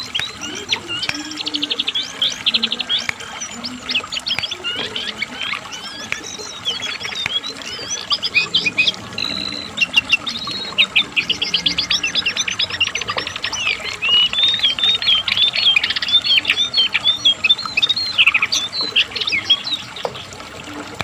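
Cingcoang (jongkangan) songbird singing nonstop: a rapid stream of high chirps, quick sweeping notes and fast rattling trills, with barely a pause.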